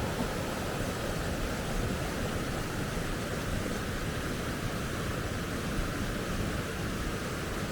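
River rapids, water rushing steadily over rocks.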